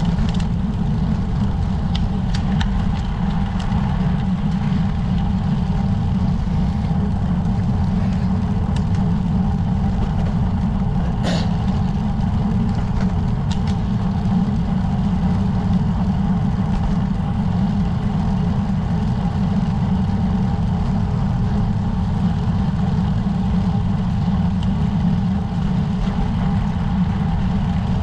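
Steady low rumble of wind and road noise on a bicycle rider's camera while riding, with a single faint click about eleven seconds in.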